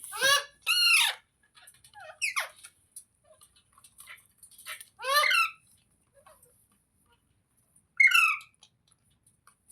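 Indian ringneck parakeet (green parrot) giving harsh squawking calls: two in quick succession at the start, then single calls at irregular intervals, about five in all.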